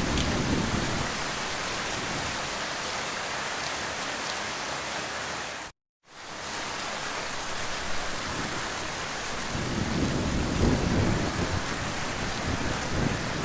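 Heavy rain falling in a steady hiss, with low rumbles of distant thunder near the start and again, building, in the last few seconds. About six seconds in, the sound cuts out completely for a split second and then comes back.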